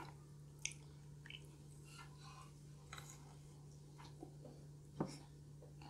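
Quiet close-up chewing of a soft, chewy chocolate chip cookie, with faint scattered mouth clicks and one louder click about five seconds in.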